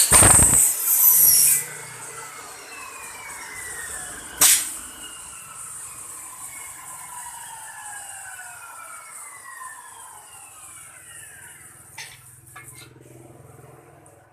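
Homemade double-head aluminium cutting saw, driven by an old Makita motor, finishing a loud cut through an aluminium profile in the first second and a half, then the blade and motor coasting down after switch-off, the whine falling steadily in pitch for about ten seconds. A sharp knock about four and a half seconds in, and a few small clicks near the end.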